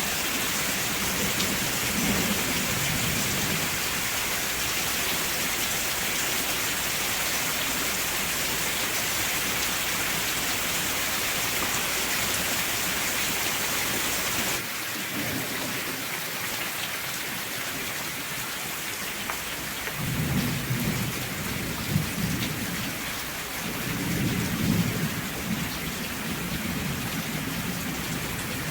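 Steady rain with low rolls of thunder, one about two seconds in and more from about twenty seconds on. About halfway through, the rain abruptly turns a little quieter and duller.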